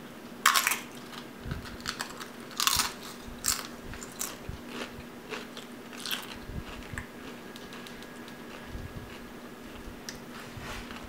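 Close-mic biting and crunchy chewing of crispy fried food. The loudest crunches come in the first few seconds and give way to quieter chewing.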